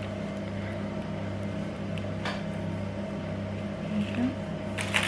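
A steady low electrical hum, with a faint tap about two seconds in and a brief rustle near the end as small craft pieces are handled.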